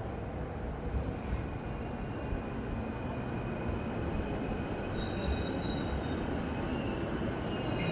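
Electric commuter train running through the station with a steady rumble, its wheels squealing in several high thin tones that grow louder near the end.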